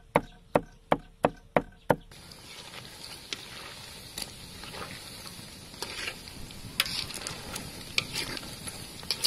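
A knife chopping garlic on a wooden board, about three sharp strikes a second, stops about two seconds in. Then battered chicken pieces deep-frying in hot oil in a wok, a steady sizzle with occasional clicks of a ladle and wire strainer against the wok.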